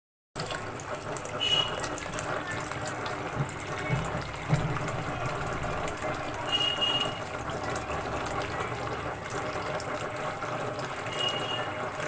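Water running and splashing steadily down a small homemade tabletop waterfall fountain.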